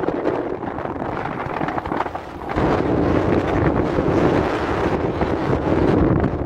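Strong wind buffeting the microphone, easing briefly about two seconds in and then gusting hard again.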